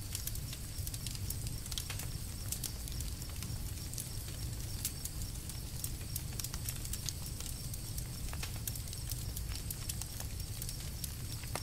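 Campfire burning, wood crackling and popping in quick irregular snaps over a steady low rumble.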